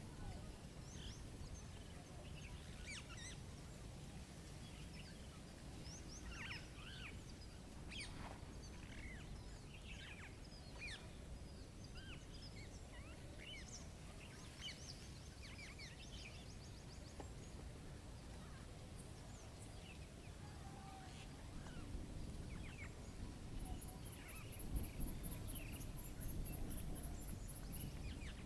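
Nature ambience of many small birds chirping and calling in short scattered notes over a steady low rumble. Near the end a fast, high-pitched pulsing trill joins in.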